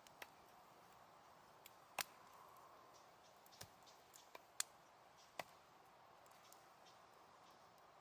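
Wood fire crackling: scattered sharp pops and snaps, the loudest about two seconds in and just past the middle, over a faint steady hiss.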